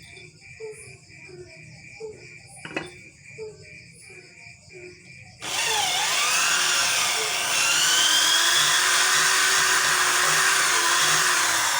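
A handheld electric power tool, drill-like, switches on about five seconds in and runs loud and whirring, its whine shifting in pitch as it bears on the workpiece. Before it starts, only faint regular ticks are heard, about one and a half a second.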